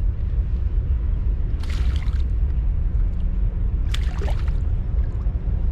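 Two short splashes of water, about two and four seconds in, from a hooked freshwater drum thrashing at the surface during the fight, over a steady low rumble.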